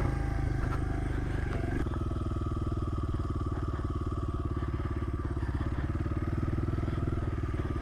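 Honda CRF100 dirt bike's single-cylinder four-stroke engine idling with even firing pulses, settling into a steady idle about two seconds in.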